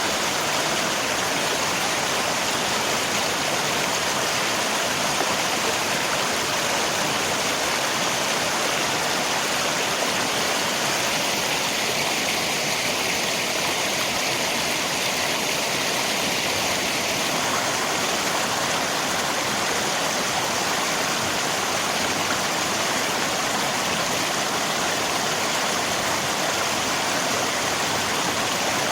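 River water flowing steadily, with rain falling, making an even, unbroken hiss.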